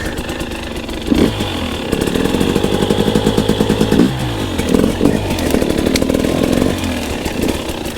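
Two-stroke dirt bike engine being ridden, its revs climbing about a second in, easing off around the middle, then climbing and dropping again.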